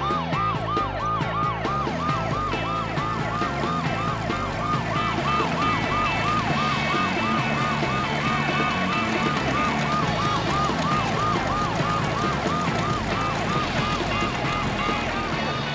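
Ambulance siren in a fast rising-and-falling yelp, about three cycles a second, over background music; it stops near the end.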